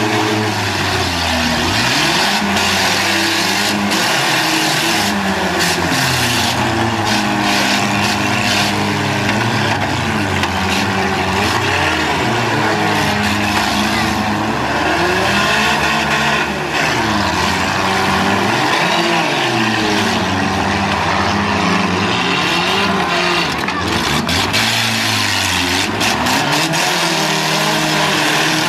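Several demolition derby cars' engines revving up and down at once, with scattered sharp bangs through the run.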